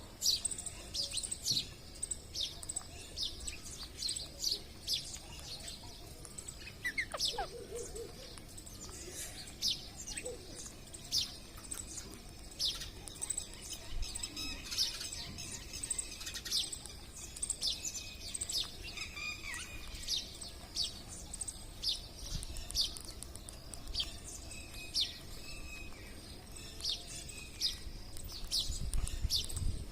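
Wild parrots calling: short, sharp, high-pitched calls repeated one or two a second.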